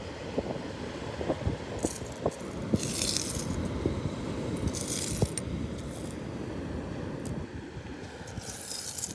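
Loose seashells clinking and rattling together in short bursts, four times, over a steady low rumble with scattered small clicks.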